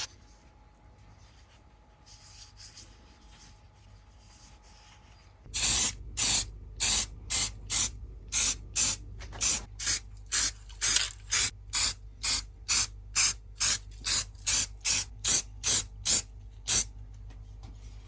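Spray hissing in short, even bursts, about two a second, starting about five seconds in and stopping shortly before the end.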